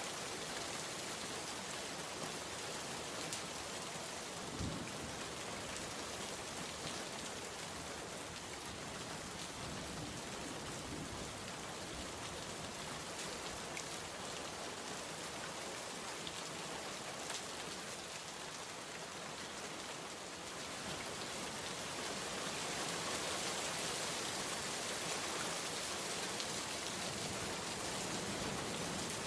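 Steady rain falling, a dense even hiss with a few separate drops ticking now and then. The rain grows slightly louder about two-thirds of the way through.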